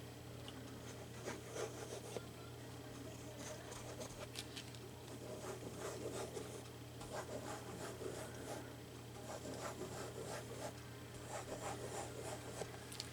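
Paper being rubbed and pressed down by hand as a cut sheet is glued onto a book page: soft, irregular rubbing and scratching strokes.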